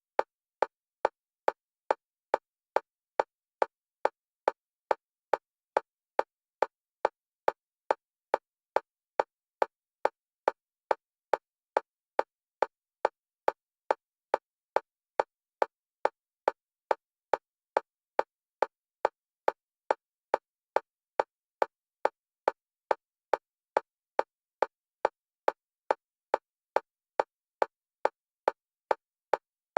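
Metronome-style click track for EMDR bilateral stimulation: identical short clicks of one pitch, steady at about two a second, alternating between the left and right stereo channels.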